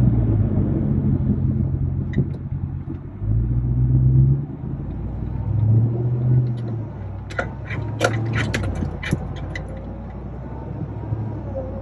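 Interior noise of a 2021 Ram 1500 TRX on the road: its supercharged 6.2-litre V8 and road rumble heard from inside the cab, with a faint thin whistle. That whistle is wind noise leaking in at the passenger-side A-pillar, a fault on the new truck. A quick run of clicks comes about two-thirds of the way in.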